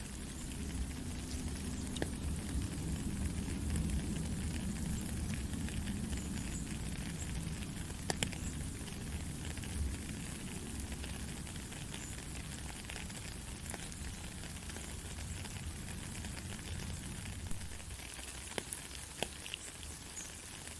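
Heavy rain falling steadily, a continuous hiss with scattered sharp drop clicks. A low rumble, typical of distant thunder, swells about a second in and eases off over the next ten seconds or so.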